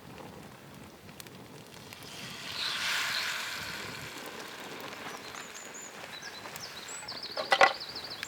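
Forest ambience: a gust of wind swells and fades about two to four seconds in, then near the end a small bird trills high and a single sharp crack sounds.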